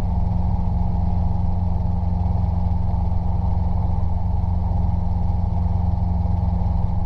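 Robinson R22 helicopter's engine and rotor running steadily: a constant low drone.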